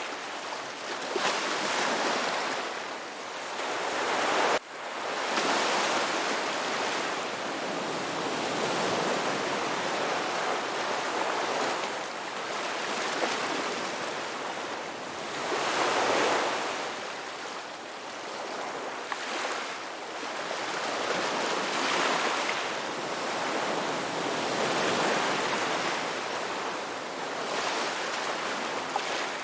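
Ocean waves breaking and washing on a shore, a continuous rush of surf that swells and falls back every few seconds, with a brief sudden dip in level about four and a half seconds in.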